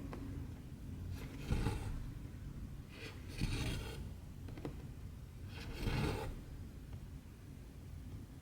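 Cotton embroidery thread drawn through 14-count cross-stitch fabric, three short rasping swishes about two seconds apart as each stitch is pulled tight, with a faint click of the needle between them.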